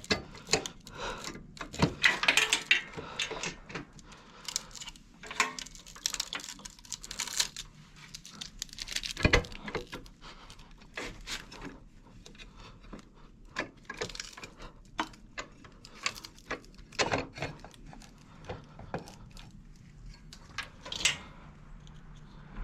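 Hands handling small metal and plastic items: scattered clicks, rattles and rustling at irregular intervals, with a sharper knock about nine seconds in.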